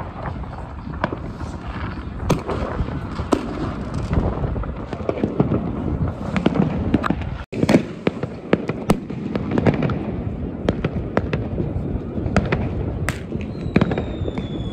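Many fireworks going off at once: a continuous crackle and rumble of rockets, batteries and firecrackers, with sharp bangs at irregular intervals. Near the end a whistle slowly falls in pitch.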